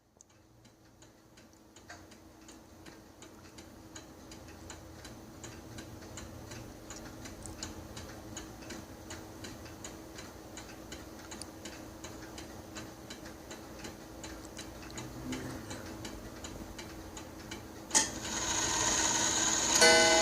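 Seth Thomas beehive mantel clock ticking steadily, fading up from silence at the start. Near the end it begins to strike: a sharp ringing stroke, then another, leaving sustained ringing tones.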